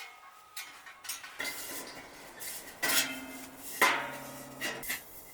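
Metal cookware clinking and knocking together, several separate strikes that each ring on briefly.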